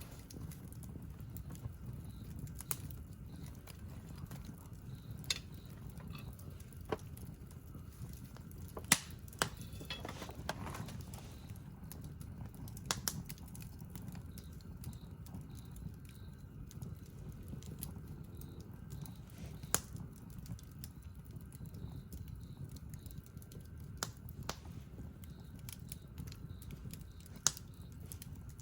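Wood campfire crackling: sparse sharp pops and snaps every few seconds, the loudest about nine seconds in, over a low steady rumble.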